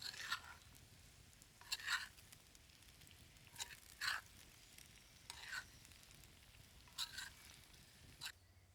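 Utensil stirring food in a cooking pan, with six short scrapes about every second and a half.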